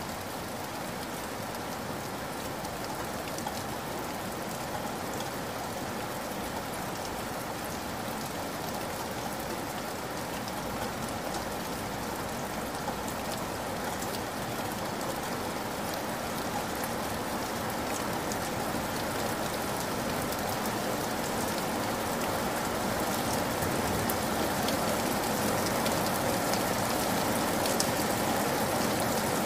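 Heavy rain falling steadily: a dense hiss with the patter of individual drops, growing gradually louder toward the end.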